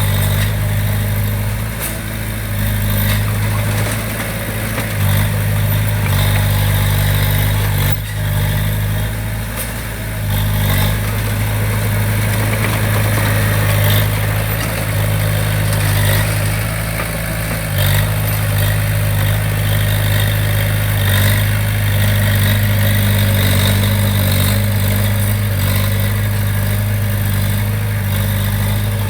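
Heavy-equipment diesel engine running steadily with a low, even note that shifts slightly a few times, with occasional knocks.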